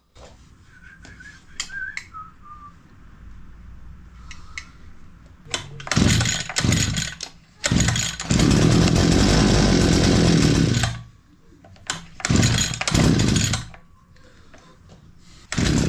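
Oleamac BCH 40 brushcutter's two-stroke engine being started. About five seconds in it fires in short spurts, runs for about three seconds, dies, then catches in spurts again and dies each time. The owner puts the trouble down to a faulty carburetor.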